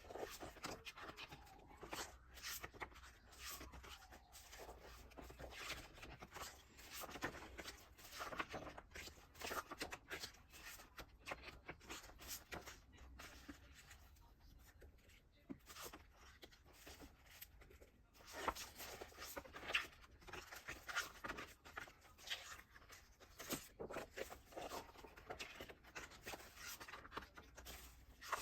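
Hands handling and unwrapping album packaging: irregular rustling with small clicks and taps, quieter for a few seconds in the middle.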